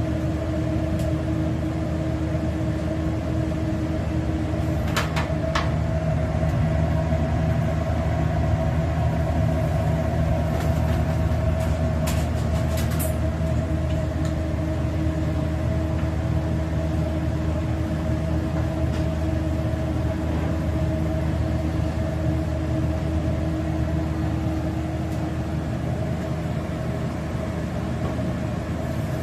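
Steady electric hum of a kitchen appliance's motor, with a few light clicks about five seconds in and again around twelve seconds.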